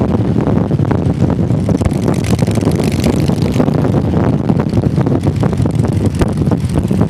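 Motorcycle engine running steadily while riding, a loud low rumble, with wind noise buffeting the microphone.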